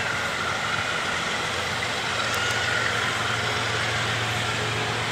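Steady low engine hum of a distant diesel-hauled train approaching, under an even hiss of outdoor noise.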